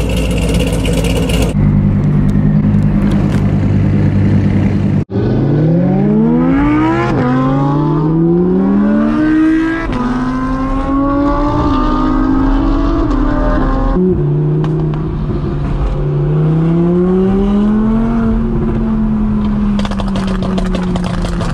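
A sports car engine running under load and accelerating: its pitch climbs, drops at a gear change, then climbs again. The sound breaks off abruptly a few times and resumes, with the engine steady in some stretches and rising again in others.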